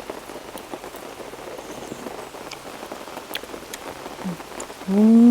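Steady rain falling, an even hiss with scattered sharp drips. Near the end a person gives a short hummed "mmm" that rises and falls in pitch.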